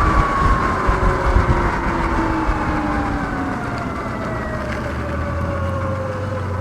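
Sur-Ron Light Bee electric dirt bike's motor and drivetrain whine, falling slowly and steadily in pitch as the bike coasts down to a stop. Wind rumble on the microphone eases off about halfway through.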